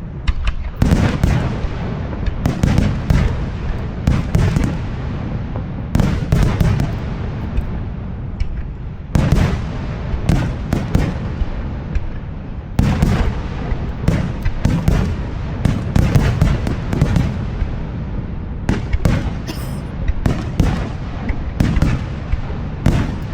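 Fireworks display: aerial shells bursting one after another, deep booms mixed with sharp cracks and crackling. A continuous low rumble carries on between the bursts, and the bursts come in thicker clusters every few seconds.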